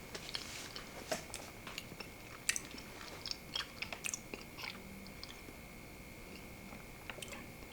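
Close-up mouth sounds of a person eating baked mac and cheese: scattered soft clicks and smacks of chewing, mostly in the first half, with a brief low hum about five seconds in.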